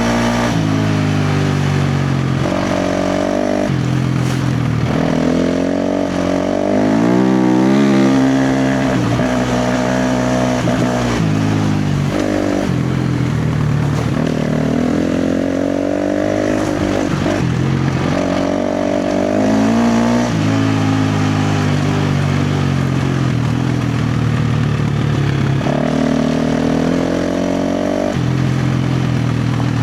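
KTM 350 XC-F dirt bike's single-cylinder four-stroke engine ridden hard, its pitch climbing and dropping over and over as the throttle is opened and closed. It is loudest with a quick climb about eight seconds in.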